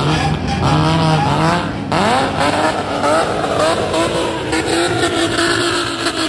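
Car engine revved hard through tall takeyari exhaust pipes. The pitch climbs in several quick rises, then settles into a steady run near the end.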